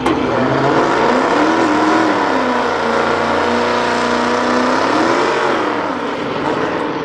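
Car engine at full throttle on a drag strip launch run, its pitch climbing and then dropping twice as it shifts up through the gears.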